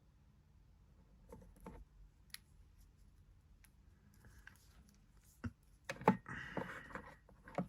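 Small plastic action figures being handled: scattered faint clicks and taps, then a louder clatter of plastic knocks and rustling about six seconds in.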